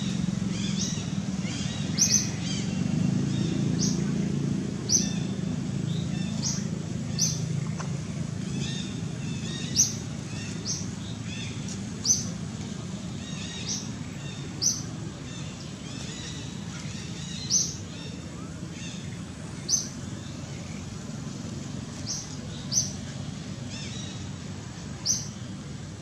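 A bird calling over and over outdoors, one short, high, rising chirp every second or two. A low background hum sits beneath, fading after the first several seconds.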